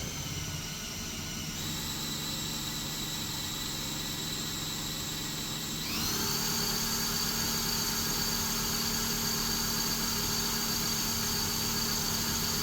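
A power tool's electric motor running with a steady whine, then speeding up about six seconds in, its whine rising in pitch and getting louder before holding steady.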